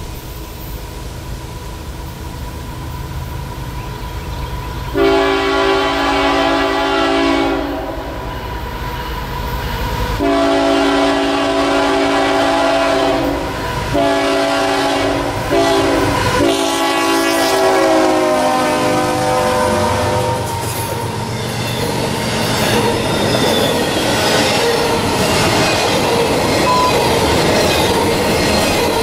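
An approaching CSX diesel freight locomotive rumbles and sounds its horn in a series of blasts starting about five seconds in. The last long blast drops in pitch as the locomotive passes. Intermodal container cars then roll by with a steady rush of wheel noise and clacking.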